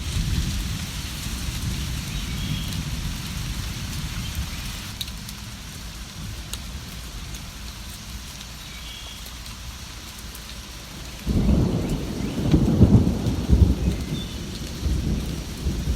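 Steady rain with distant thunder rumbling low underneath. About eleven seconds in, a louder thunder rumble breaks in suddenly and rolls on in waves.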